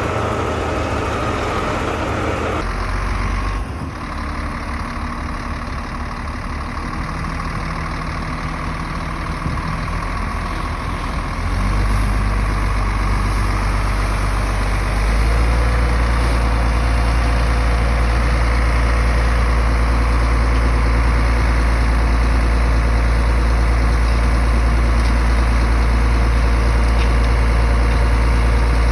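Heavy earthmoving machine's diesel engine running, a steady low drone that changes abruptly near the start and then grows louder in two steps, about twelve and about fifteen seconds in.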